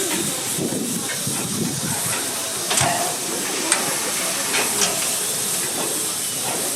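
Steady hiss of steam from a steam locomotive, with a few sharp clicks or knocks around the middle.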